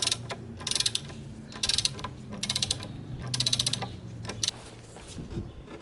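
Ratchet mechanism clicking in four short bursts of rapid clicks, over a steady low hum.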